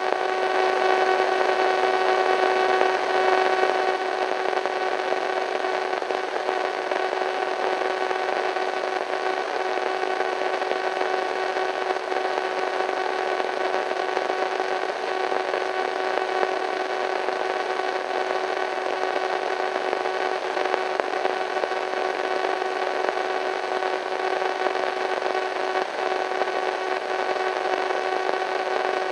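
Radio static: a steady hiss with faint steady humming tones running through it, slightly louder for the first few seconds.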